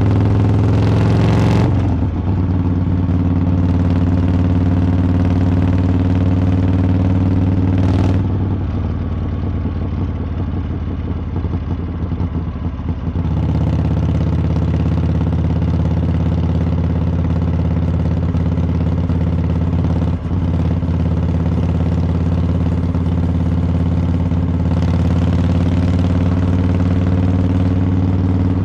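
Harley-Davidson V-twin exhaust on the road, running at a steady cruise. The note drops briefly about two seconds in and again about twenty seconds in, and from about eight to thirteen seconds the engine is off the throttle, its exhaust loping unevenly, before it pulls steadily again.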